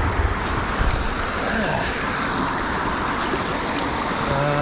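Steady rain noise, with low wind buffeting on the microphone in the first second.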